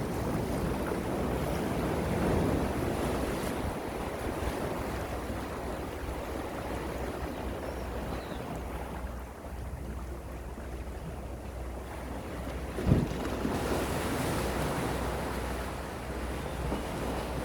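Gentle sea waves washing in and out, rising and easing over several seconds, with a low rumble of wind on the microphone. One short thump sounds about three quarters of the way through.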